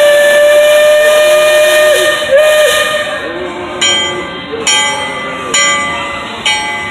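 Riverboat steam whistle blowing one long blast of about two seconds with a hiss of steam, then a short blast. Then a bell rings four times, about a second apart.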